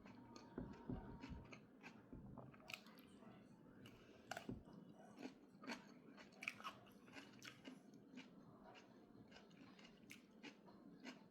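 A person biting and chewing food at close range, with soft crunches and irregular little clicks, while eating a breakfast of boiled egg and cucumber.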